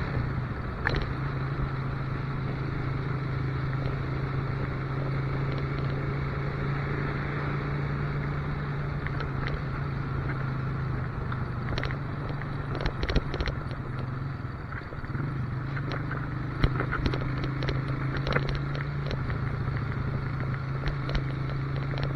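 Motorcycle engine running at a steady cruise under a haze of road noise, with a few sharp clicks and knocks. The engine note eases off briefly about two-thirds of the way through, then picks up again.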